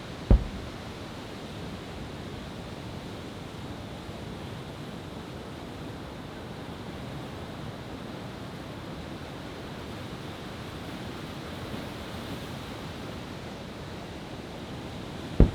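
Two single heavy booms from large aerial fireworks shells, one just after the start and one at the very end, about fifteen seconds apart. Between them runs a steady wash of noise like surf.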